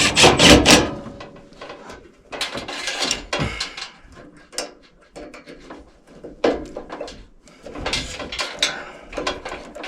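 Hands working with parts and tools: irregular rubbing, scraping and knocking. The loudest clatter comes right at the start, with further bursts a few seconds in and near the end.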